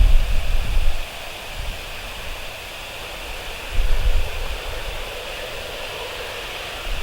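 Steady rushing noise, with wind buffeting the microphone at the start, again about four seconds in, and at the end.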